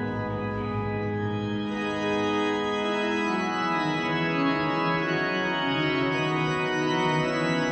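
Cathedral pipe organ playing held chords, the chord changing twice in the first few seconds.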